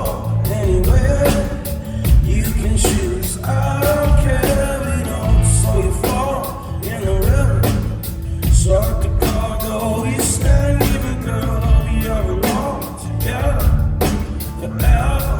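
Rock band playing live: a singer over electric guitars, bass and a steady drum beat.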